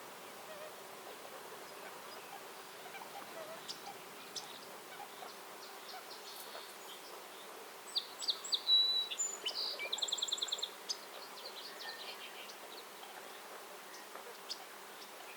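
Small songbirds calling with high chips and a fast, even trill, busiest about eight to eleven seconds in, over a steady low hum of forest background.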